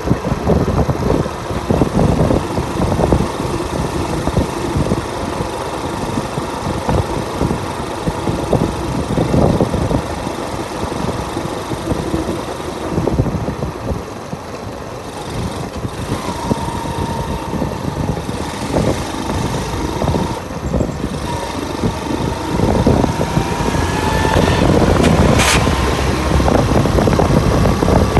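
A motorcycle running as it is ridden, with a steady rushing noise under it. It grows louder near the end, where a whine rises in pitch and a single sharp click is heard.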